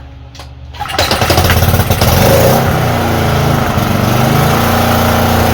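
Small Honda-style pressure washer engine speeds up sharply about a second in, then keeps running loud and fast, its pitch shifting briefly before it settles.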